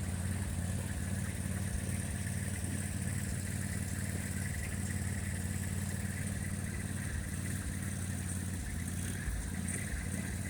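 Argo amphibious ATV's engine running at a steady, unchanging speed.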